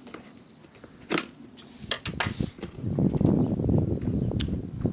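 Crickets chirping steadily in the background, with a few sharp clicks and, from about halfway in, louder rustling and handling noises.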